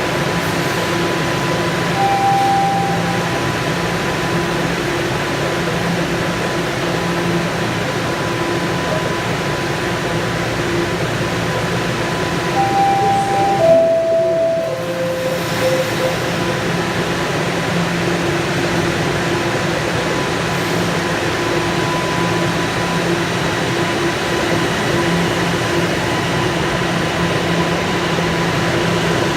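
Bombardier Toronto Rocket subway train standing at a platform, its equipment humming steadily. A single short tone sounds about two seconds in. About halfway through comes a three-note chime stepping down in pitch, the signal that the doors are closing.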